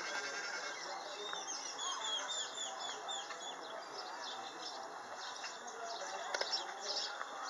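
Small birds chirping, with a quick run of repeated hooked notes in the first few seconds, over a steady outdoor hiss.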